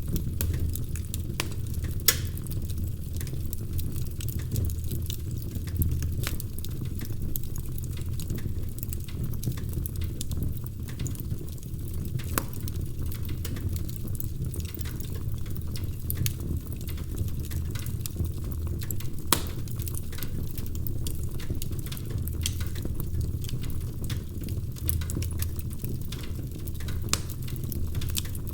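Wood fire crackling in a fireplace: a steady low rumble of flames, scattered with many small crackles and a few sharper pops.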